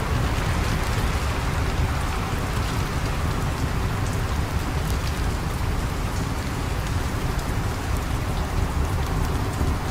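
Steady rain falling, an even hiss with a constant low rumble underneath and faint fine ticks of drops.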